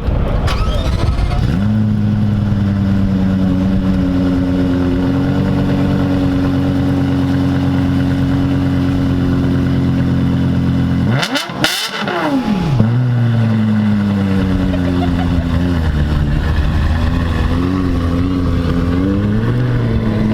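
A car engine idling close by, holding a steady pitch, with a short dip about halfway through; afterwards the engine note wavers a little up and down.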